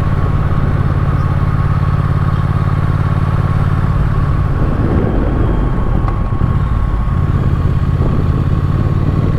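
Triumph Speed Twin's parallel-twin engine running while the motorcycle is ridden, heard from on the bike. The engine note is steady at first, turns rougher and uneven for a few seconds around the middle, then settles into a steady note again.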